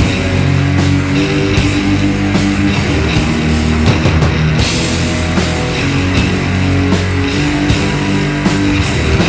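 A live heavy rock band plays loud: distorted electric guitars and bass hold low notes over a drum kit with constant cymbal crashes.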